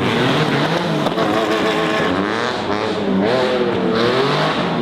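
Ferrari F40 LM's twin-turbo V8 revving, its engine note rising and falling several times.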